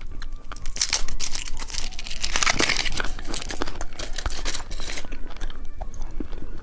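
Candy wrapper crinkling and rustling as it is handled, dense crackling for about four seconds, then a few quieter crinkles near the end.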